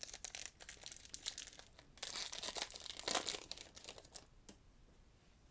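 A trading-card pack wrapper being torn open and crinkled in the hands. The crackling is densest in the middle and fades near the end.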